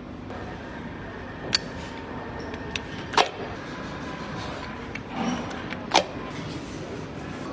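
Engine-assembly workshop noise: a steady hum with a faint high whine, broken by three sharp metal clicks or clanks from tools and parts, the second and third the loudest.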